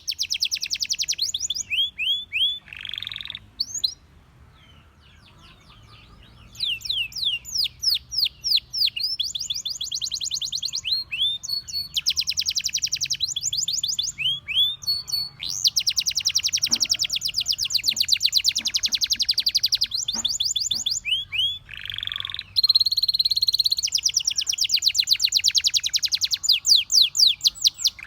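Canary singing: long, rapid trills of quickly repeated high whistled notes, broken by a few lower, fuller held notes and a pause of a couple of seconds about four seconds in.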